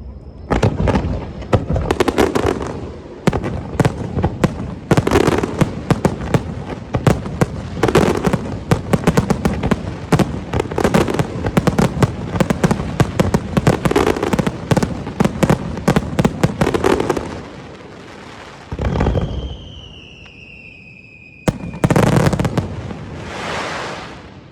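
Fireworks display: a dense barrage of shells bursting and crackling, surging about every three seconds. After a short lull come a single burst, a falling whistle and two more bursts near the end.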